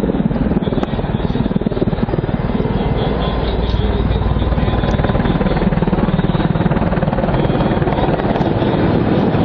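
Helicopter in flight, its rotor beating steadily with the turbine running underneath.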